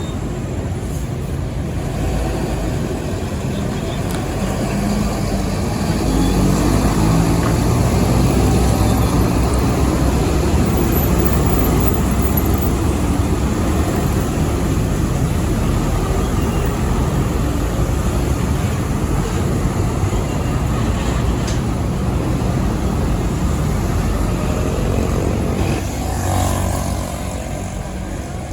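Heavy loaded trucks passing along a road, their engines and tyres running loud and steady. The noise builds about five seconds in, stays at its loudest for several seconds, then slowly eases.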